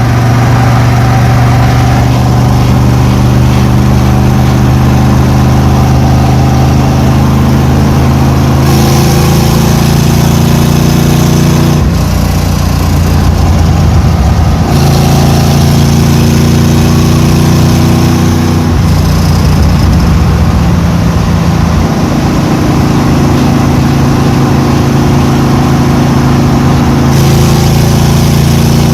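Chevy 350 small-block V8 running and revving, its pitch rising and falling, with the sound changing abruptly several times.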